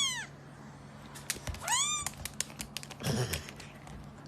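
A cat meowing: the tail of one call at the very start, then a short meow that rises and falls in pitch about two seconds in, with a few light clicks around it.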